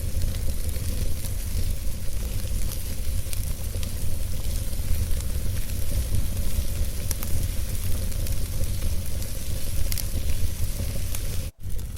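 Wood fire burning in a fireplace: a steady low rumble of flame with scattered small crackles and pops. The sound cuts out for an instant near the end.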